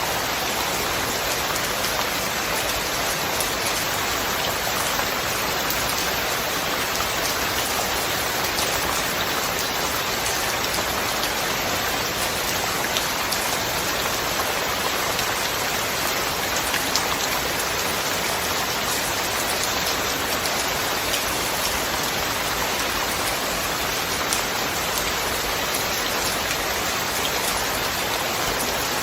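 Steady rain falling, an even hiss of many drops hitting a surface, with no thunder.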